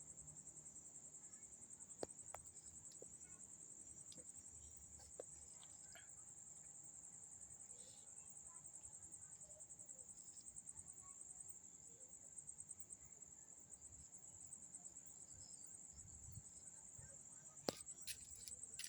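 Crickets chirring in one steady, high-pitched, fast-pulsing trill, with a few faint clicks and a sharper tap near the end.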